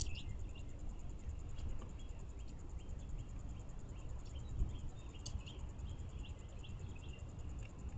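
Backyard birds giving short, scattered chirps and call notes, over a faint steady high insect trill and a low background rumble.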